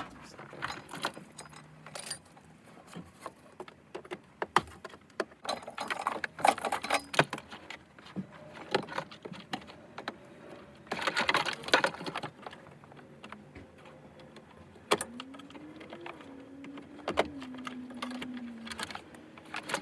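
Irregular clicks, clatter and rattling of plastic trim, connectors and wiring being handled and pulled loose while a car's dashboard and wiring harness are stripped out, with a faint hum that rises and then holds near the end.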